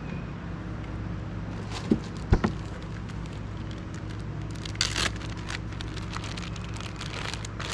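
Corn on the cob being handled and unwrapped: scattered crinkling and tearing sounds, the loudest just under five seconds in, with two sharp knocks about two seconds in, over a steady low motor hum.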